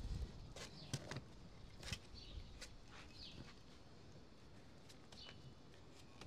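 Quiet outdoor ambience with a few small birds chirping, and a handful of light clicks and taps in the first couple of seconds.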